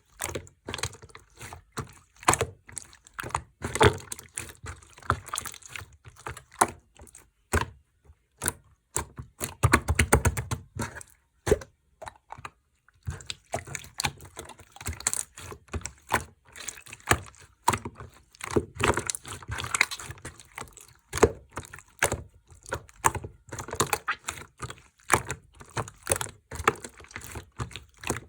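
Slime being kneaded and mixed by hand, giving irregular sticky clicks and crackling pops, with a quick run of clicks about ten seconds in and a brief pause just after.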